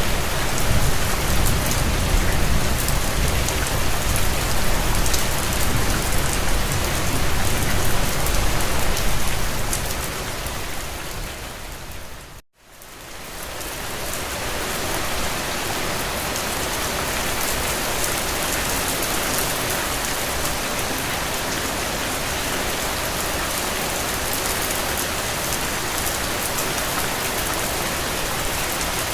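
Steady rain, an even hiss with a low rumble underneath for the first ten seconds or so. About twelve seconds in it fades out to a moment of silence, then fades back in as steady rain without the rumble.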